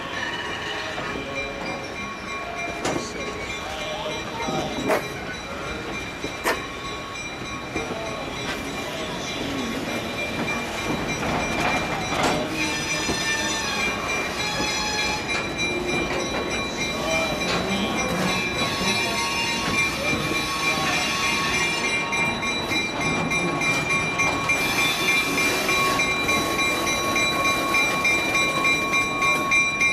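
Passenger coaches rolling slowly past on steel wheels, with a steady high squeal from the wheels on the curved track and a few knocks over rail joints in the first seconds. The train grows louder near the end as the diesel locomotive draws near.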